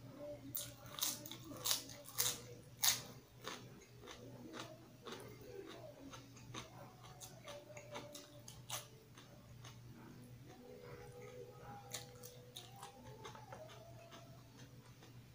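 Close-miked crunching and chewing of a raw leafy green, loud crisp crunches in the first few seconds, then softer, wetter chewing with a few sharp clicks.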